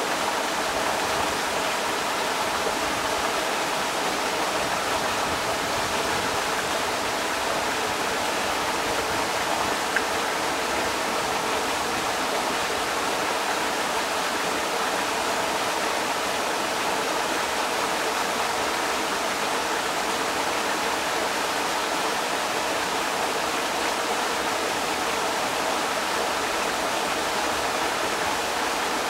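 Creek water rushing steadily over rocks, an even, unbroken wash of water noise.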